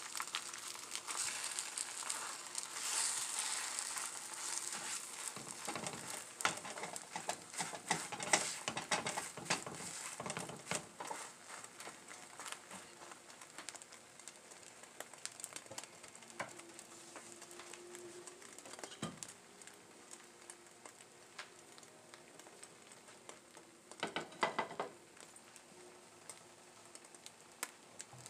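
Egg omelet sizzling in a hot nonstick frying pan while a silicone spatula presses and turns it, with a busy crackle and small clicks. The sizzling is loudest for about the first ten seconds, then dies down to a faint fry, with a short louder flurry of spatula noise near the end.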